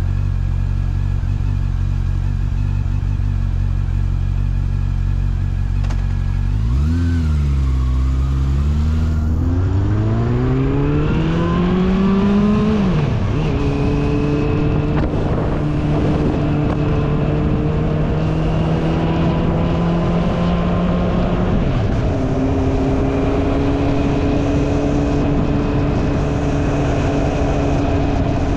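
Honda CB400SF's inline-four engine idling at first, then pulling away about seven seconds in. It accelerates with its note rising, drops in pitch at an upshift about thirteen seconds in and again near twenty-two seconds, then runs steadily at cruising revs.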